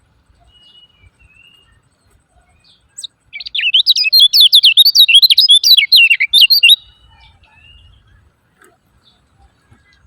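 Kecial kuning (a white-eye) giving its 'ciak ciak jos' call: a loud, rapid, chattering run of sharp up-and-down notes lasting about three and a half seconds, starting about three seconds in. A few faint chirps come before and after it.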